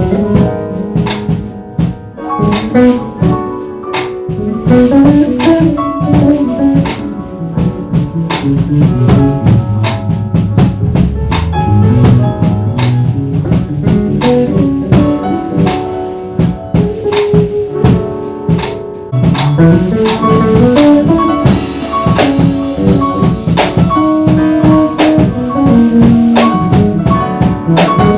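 Jazz piano trio playing: piano, bass and drum kit. The bass line climbs and falls beneath the piano while the drums keep time, with a cymbal crash washing over it a little past the middle.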